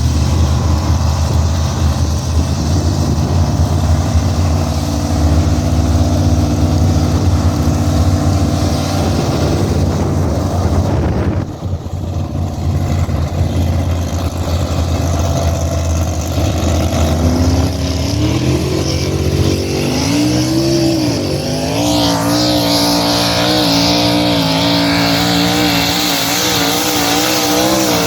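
Pulling vehicle's engine at a truck/tractor pull, running low and steady for the first half, then revving up from about 17 seconds in. From about 22 seconds it runs hard at high revs, its pitch wavering, as in a pull down the track.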